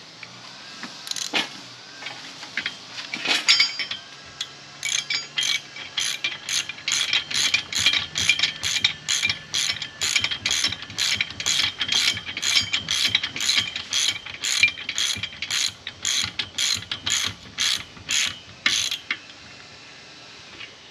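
Hand ratchet wrench being worked back and forth to tighten a bolt, clicking in steady strokes about two a second for some fifteen seconds. It is preceded by two sharp knocks.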